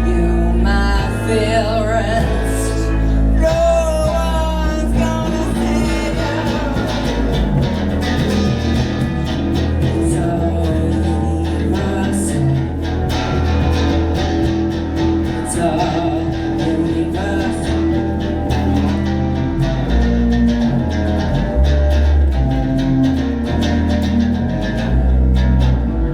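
Live band playing a song: electric guitar and bass with a singing voice, wavering, in the first few seconds.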